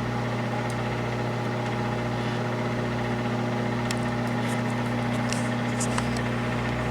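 Microwave oven running with a steady electrical hum as it heats a sample of blood, with a few faint high ticks.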